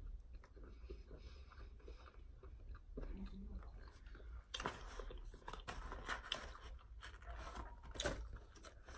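A person chewing a bite of fried chicken sandwich, faint, with short crunchy clicks that come thicker from about halfway through.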